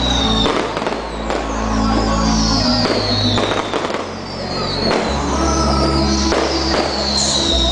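Aerial fireworks bursting, with sharp bangs about once a second, over loud music.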